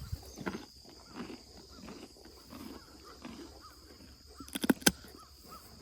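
Young donkeys eating feed close by, with irregular chewing and crunching. A quick run of sharp knocks comes about four and a half seconds in.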